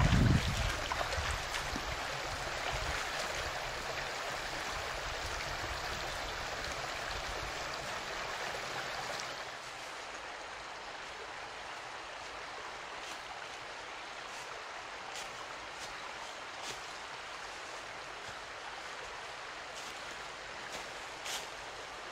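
Steady rushing of running water, like a small stream. It drops noticeably in level about nine or ten seconds in, and a few faint clicks or snaps come near the end.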